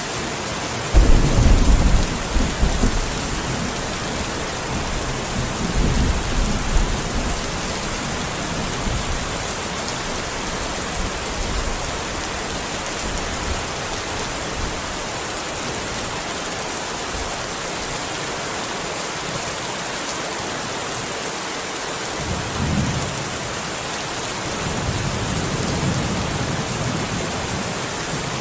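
Steady rain with low rolls of thunder: the loudest comes about a second in, another around six seconds, and more in the last few seconds.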